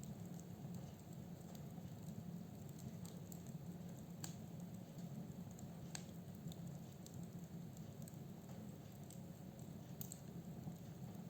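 Firewood burning in a fireplace: a steady low rumble of the flames with scattered sharp crackles and pops from the wood, the loudest about four and six seconds in and near the end.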